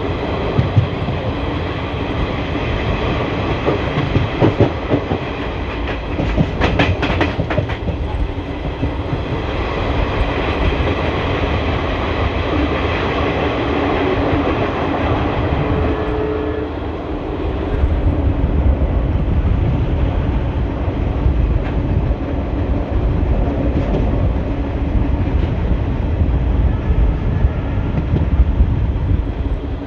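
ICF passenger coach running on the track, heard from inside: steady wheel-on-rail rumble with the clickety-clack of rail joints, growing heavier in the second half.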